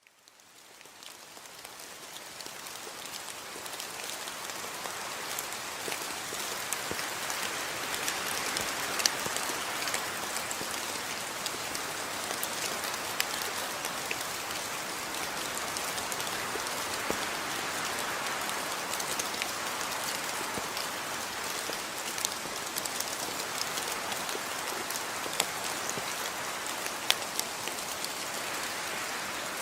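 Steady rain falling, an even hiss with the sharp ticks of individual drops hitting a surface scattered through it; it fades in over the first few seconds.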